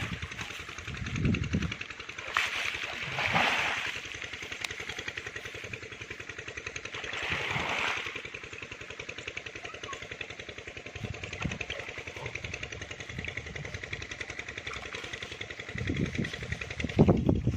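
A small engine running steadily, with a few brief louder rushes of noise over it.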